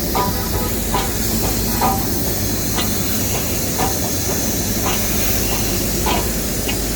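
Swiss-built rack steam locomotive of the Nilgiri Mountain Railway standing close by and hissing steam steadily, with short clicks and knocks every second or so.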